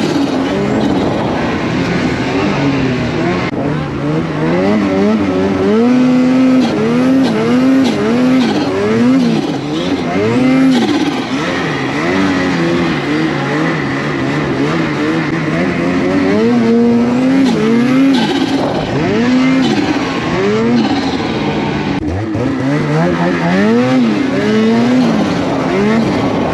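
An engine revving up and down over and over, its pitch rising and falling about once a second, over constant rushing noise.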